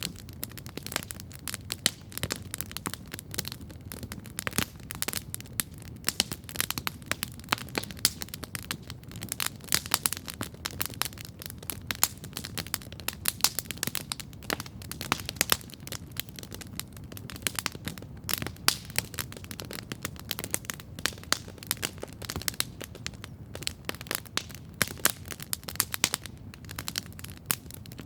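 Wood campfire crackling steadily, with a dense, irregular run of sharp pops and snaps over a low steady rumble.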